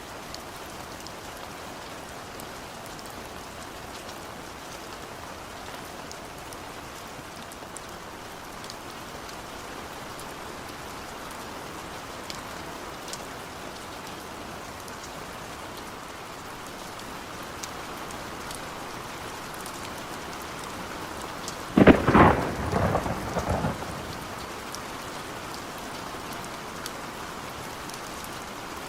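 Steady rain falling, with a sudden thunderclap about two-thirds of the way through that cracks sharply and then rumbles in a few quick rolls for about two seconds. The thunderclap is the loudest thing heard.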